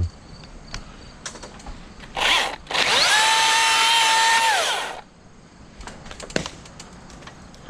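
Milwaukee M18 battery chainsaw triggered in a short blip, then run for about two seconds with a steady electric whine that rises as it spins up and falls as it stops.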